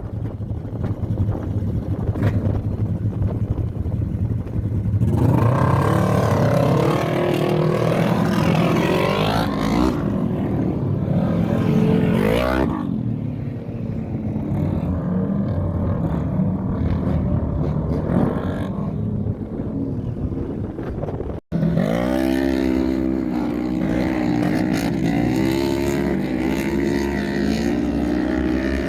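Off-road race engines revving on a dirt track, pitch climbing and falling as they accelerate and back off, with wind rumbling on the microphone in the first few seconds. The sound cuts out abruptly about two-thirds of the way through, then engines revving again.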